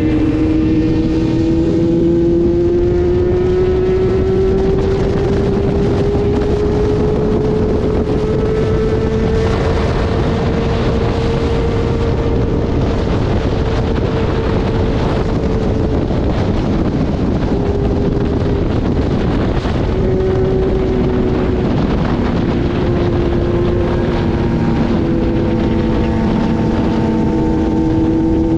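Motorcycle engine running at road speed under heavy wind rush. Its pitch climbs slowly over the first ten seconds, then dips and shifts with changes in speed.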